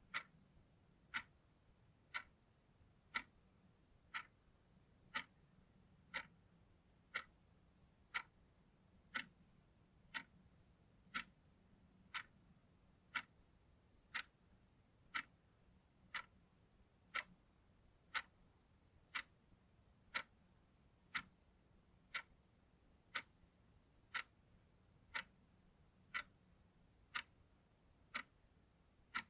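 Clock ticking steadily, one crisp tick about every second.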